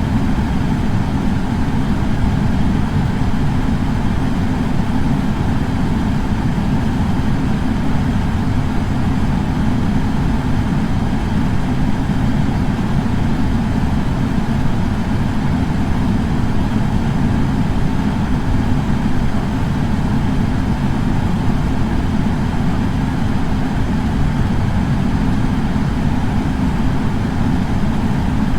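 Air purifier fan running steadily, an even low rush of air with no change in speed.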